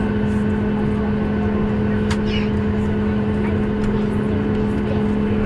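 Cabin noise of a Southwest Boeing 737 jet airliner in flight: a steady engine and airflow drone with a constant low hum.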